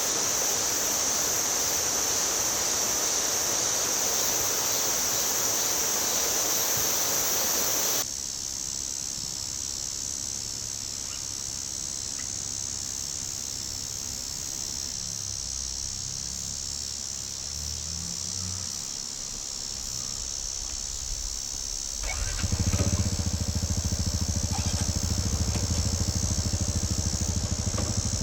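A steady rushing hiss with a high, even buzz runs for the first third and cuts off abruptly. About 22 seconds in, a Honda Super Cub 110's single-cylinder four-stroke engine starts and settles into a steady idle.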